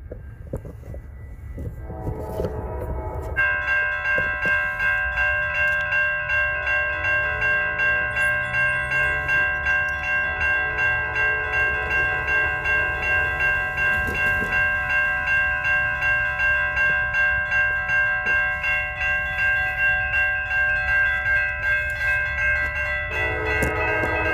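Railroad crossing warning bell ringing in a steady rapid pulse while a freight train approaches. The locomotive's air horn chord sounds about two seconds in and again near the end.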